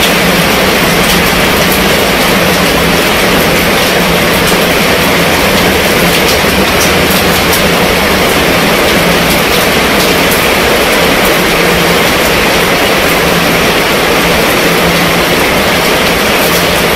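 Heavy rain falling steadily on a tent's fabric roof and on wet paving: a loud, even hiss with scattered ticks of single drops.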